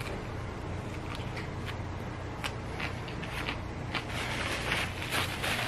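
A bite into a crispy fried chicken sandwich, then chewing with scattered crunchy crackles; the crackling grows denser about four seconds in.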